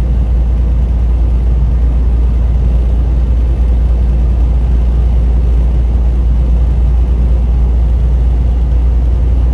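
Steady low drone of a semi truck heard from inside the cab while cruising on the highway: engine and road noise, even and unchanging.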